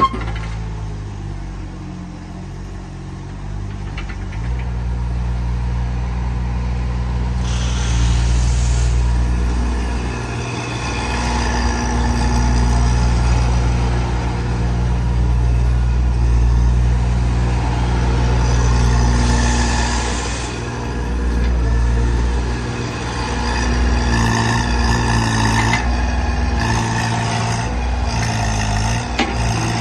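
HX30 mini excavator's diesel engine running, its note stepping up about four seconds in and then dipping and picking up again several times. Two brief hissing sounds come about eight and twenty seconds in.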